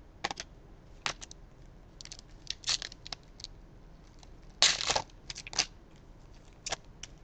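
Crinkling and tearing of a trading-card pack's foil wrapper as it is opened, heard as a string of short crackles with the longest, loudest tear about halfway through.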